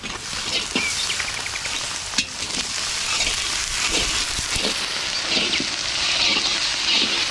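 Chopped onions with freshly added ginger and garlic paste sizzling in hot oil in a kadai, a steady frying hiss.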